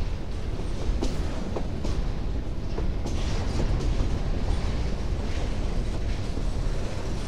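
Empty freight wagons, hopper cars and boxcars, rolling past close by: a steady low rumble of wheels on rail with occasional knocks.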